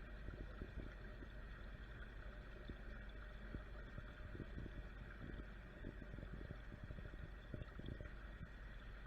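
Steady hum of a koi pond's water pump and filters, with faint water gurgling and many soft, low knocks.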